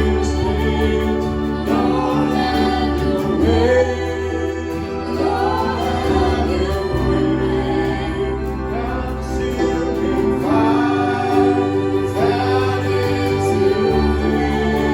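Worship song: voices singing over held chords and a bass note that changes every few seconds.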